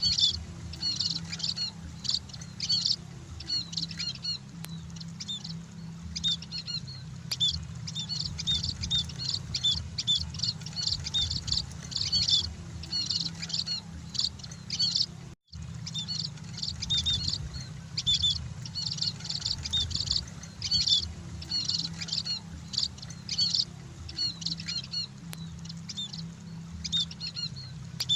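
Emprit munias chirping continuously: dense, repeated bursts of short, high chirps over a steady low hum, with a brief break in the sound about fifteen seconds in.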